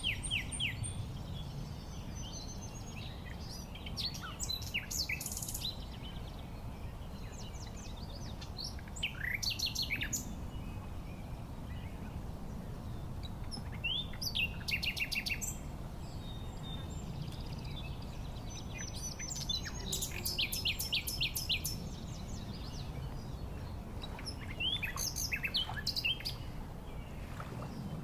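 Songbirds chirping and trilling in short, rapid bursts about every five seconds, over a steady low rumble.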